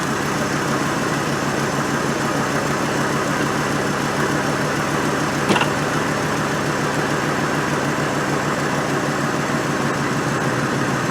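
Truck engine idling steadily, running again after a jump start from a dead battery. A brief click about halfway through.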